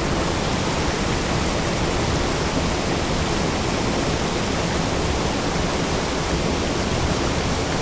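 Rushing water of a small mountain creek, a steady even rush with no change.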